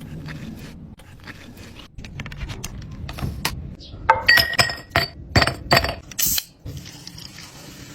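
Glass containers being handled in a kitchen: scattered soft knocks and handling noise, then about four seconds in a quick run of bright, ringing clinks of glass against glass or a hard surface for about two seconds.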